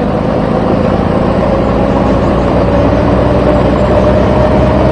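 Truck engine running steadily, its pitch rising slowly as it pulls away.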